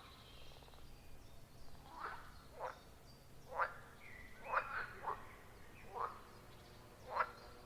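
Frogs calling at a pond: short, sharp croaks about once a second, roughly eight in all, over faint high chirping.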